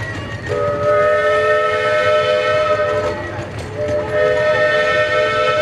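Steam whistle of a 15-inch-gauge live steam 2-6-0 locomotive, GSP&P #5, sounding two long blasts of several tones at once, the second starting about a second after the first ends.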